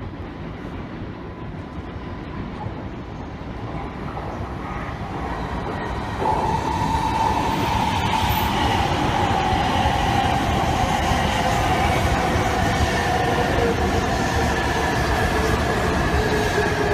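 E2 series Shinkansen train pulling into a station platform. Its rumble grows louder, then jumps about six seconds in as the train comes alongside. A high whine then slowly falls in pitch as the train slows.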